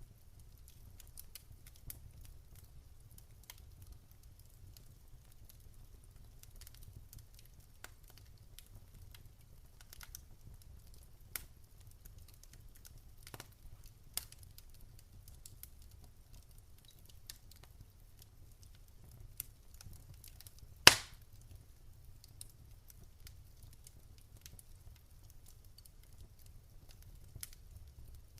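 Wood fire in a fireplace crackling, with sparse small snaps and one sharp, much louder pop about three quarters of the way through, over a faint low rumble.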